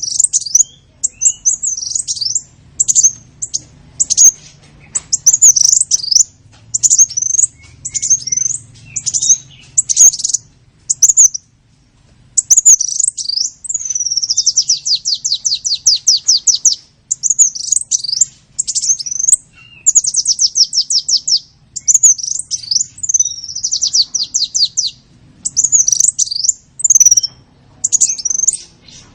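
Small-bird lure call: loud, high-pitched chirps in quick short phrases, broken by several fast trills in the middle.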